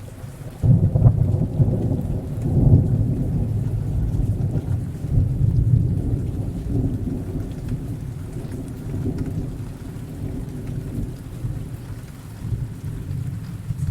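A thunderclap breaks in suddenly just under a second in and rolls on as a long, low rumble that slowly fades, over heavy, steady rain.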